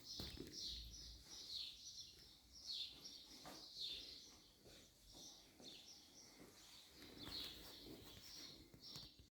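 Faint, quick series of short high chirps, repeated several times a second: bird calls.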